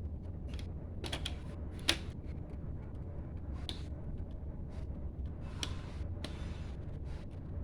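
Plastic Lego bricks clicking and rattling as they are handled and pressed together, in irregular small taps with one sharper click about two seconds in, over a steady low hum.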